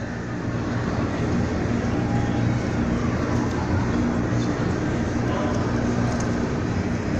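Steady vehicle engine hum and road noise, an even drone with a low tone under it.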